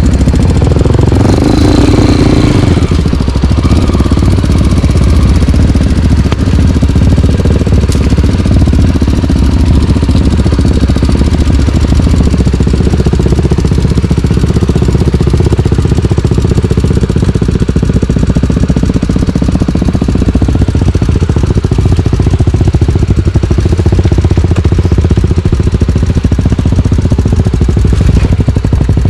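Single-cylinder four-stroke trail bike engine running under way on a dirt trail, a steady loud rumble. It revs up briefly about two seconds in.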